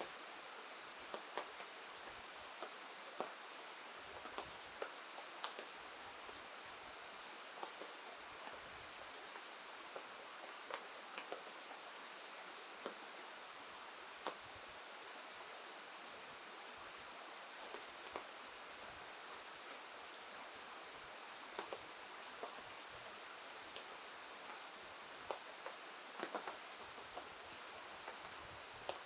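Steady rain hiss with scattered, irregular sharp ticks of drops landing close by.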